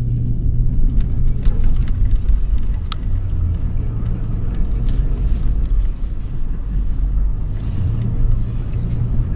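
A 2013 Toyota 4Runner's 4.0-litre V6 engine running under load as the SUV drives over sand dunes, heard as a steady low rumble. A few sharp knocks or rattles come in the first three seconds.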